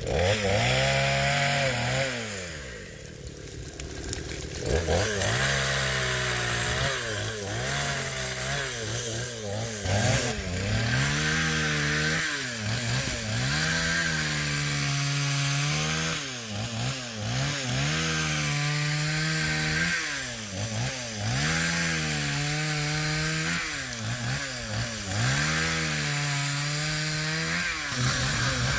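Chainsaw cutting wood. Its engine pitch repeatedly drops under load and climbs back every couple of seconds, with a brief quieter let-off a few seconds in.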